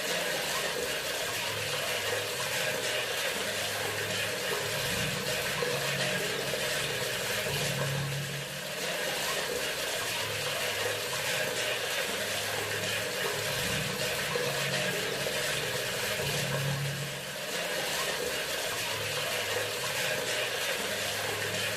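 Bathroom sink faucet running, water pouring steadily into the basin, easing briefly twice. A low hum underneath shifts between two pitches.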